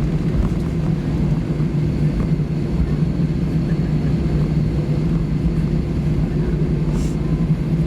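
Steady low rumble and hum inside the cabin of an Airbus A320 on the ground after landing, from the engines and air system. A faint short click comes near the end.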